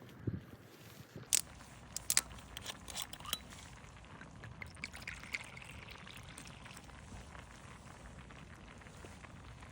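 Liquid being poured, preceded by a few sharp clicks in the first three seconds or so.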